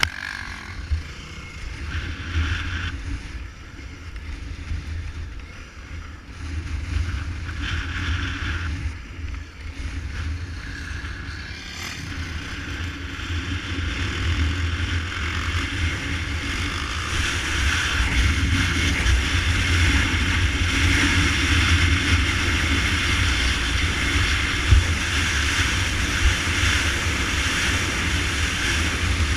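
Honda Tornado 250 single-cylinder motorcycle being ridden, its engine mixed with heavy wind rumble on the microphone. The noise grows louder from about halfway through.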